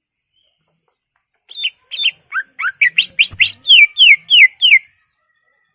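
Cucak ijo (greater green leafbird) singing a quick run of about fourteen whistled notes, mostly falling sweeps, starting about a second and a half in and getting louder towards the end.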